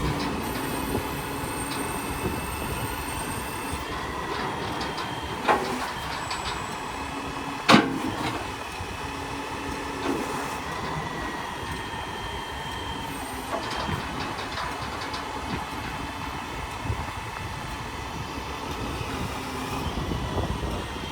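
Hino L7 grapple truck running with a steady mechanical whine, broken by a few sharp metal clanks, the loudest about eight seconds in.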